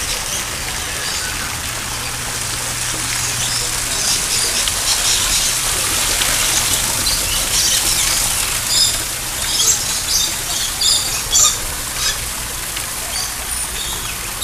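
A flock of birds chirping and squawking in many short high calls over a steady hiss, the calls coming thicker from about four seconds in.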